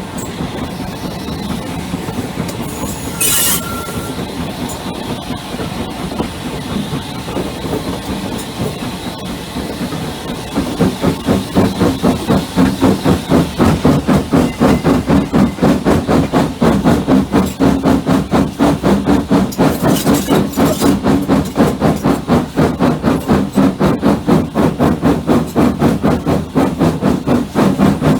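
Steam train on the move: at first a steady rumble and hiss, with one short sharp sound about three seconds in. About ten seconds in, the loud rhythmic chuff of a Hunslet 0-6-0ST saddle-tank steam locomotive's exhaust begins, with rapid even beats as the engine works hard.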